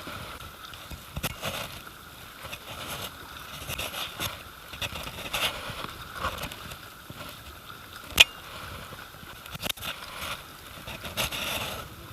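Kayak paddle strokes dipping and splashing in river water at a steady pace, with one sharp knock about eight seconds in.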